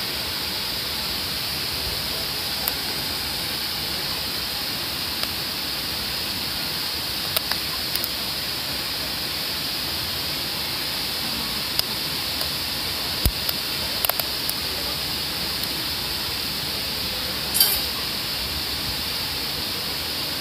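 Wood fire burning in a homemade secondary-combustion stove: a steady hiss with scattered sharp pops and crackles, the loudest about 13 and 17 seconds in.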